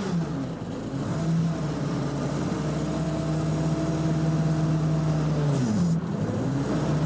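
Lada four-cylinder engine held at raised revs while it drives the hydraulic pump that turns the car's wheels through a hydraulic motor in place of a propshaft; it holds a steady note, then the revs fall away about five and a half seconds in.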